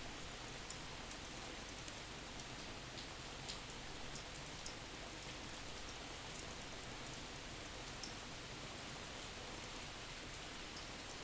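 Steady rain falling, with scattered light drips ticking through it, panned from side to side.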